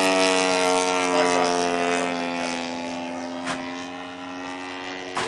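106cc petrol engine of a large-scale RC GeeBee model airplane running at steady high revs, its propeller drone fading somewhat through the middle and swelling again near the end.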